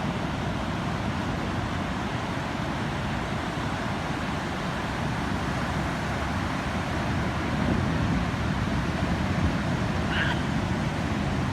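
Steady low outdoor rumble, with one brief high chirp from a small bird about ten seconds in.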